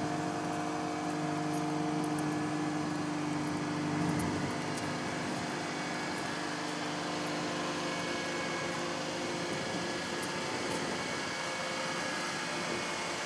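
A 2007 Pontiac Vibe's 1.8-litre four-cylinder engine idling, a steady hum that eases slightly early on and then holds even.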